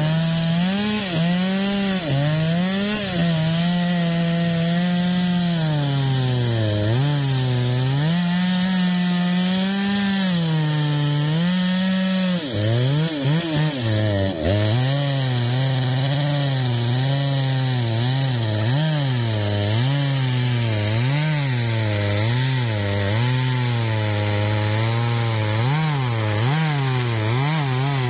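A MOTOYAMA 1000 two-stroke chainsaw running hard through teak wood. The engine note keeps dropping as the saw bogs down under load in the cut and picking up again as it eases, running lower and more unevenly from a little before halfway on.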